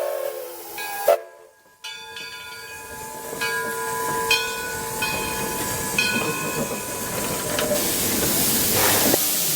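Steam locomotive sounds: a steam whistle's chord fades out at the start, then after a sharp knock and a short gap, steam hissing begins with faint steady tones under it. The hiss gets louder near the end.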